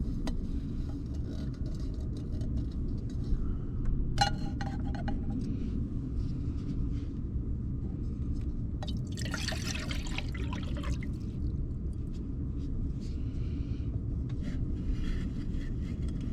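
Steady low rumble of wind buffeting the truck camper and its diesel heater running. A short ringing clink comes about four seconds in, and a brief splash of poured liquid lasts about two seconds near the middle.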